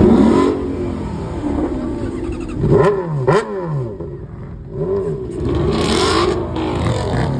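Car engine being revved repeatedly, its pitch climbing and falling back several times in quick blips.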